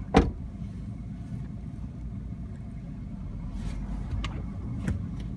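Low, steady rumble of a car, with a single sharp knock about a quarter of a second in.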